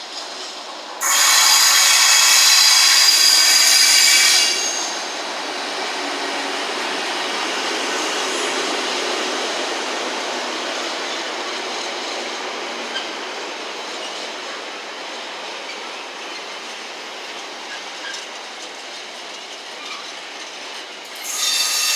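A train running through a station, a long steady rumble that swells and slowly fades. It opens with a loud high-pitched tone of about three seconds, and a shorter one comes back near the end.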